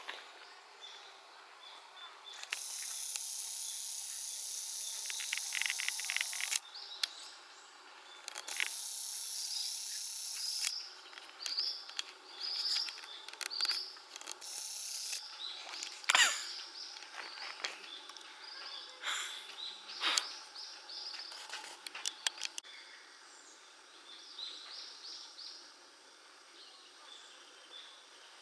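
Woodland birds giving repeated short, falling chirps, with two spells of high, hissing buzz a few seconds long early on and a few sharp knocks about halfway through.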